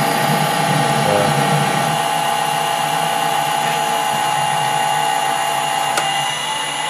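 Metal lathe running in reverse while screw-cutting an internal thread, giving a steady machine whine from its motor and gearing. A single click comes about six seconds in, and the main tone then fades away.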